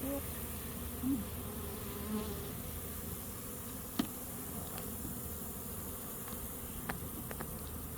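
Honey bees buzzing around an open hive, individual bees passing close by with short rising and falling hums. A sharp click about halfway through and a few lighter clicks near the end.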